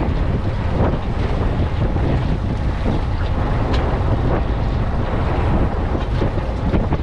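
Wind rumbling on the microphone aboard a small boat at sea, with water splashing against the hull now and then.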